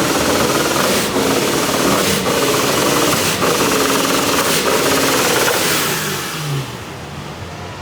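A car engine revving loud and hard, with a sharp crack about every second. It eases off and drops quieter about six seconds in.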